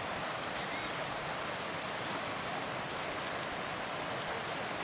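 Steady rushing of a fast mountain river's current, with faint splashes and ticks of water.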